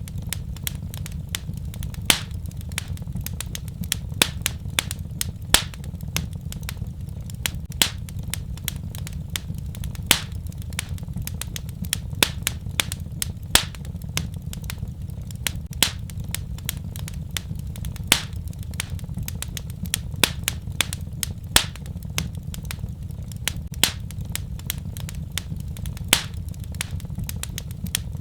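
Fireplace fire crackling: frequent irregular sharp pops, a few of them louder, over a steady low rumble.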